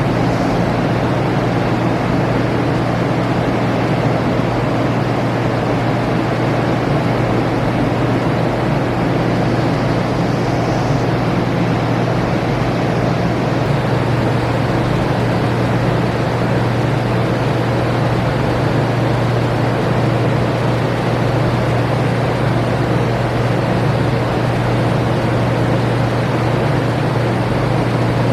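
Helicopter running steadily: a constant loud drone with a strong low hum that holds the same level throughout.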